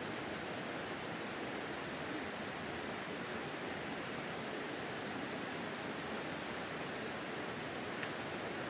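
Wood campfire burning in a fire stand, giving a steady hiss with a single faint crack about eight seconds in.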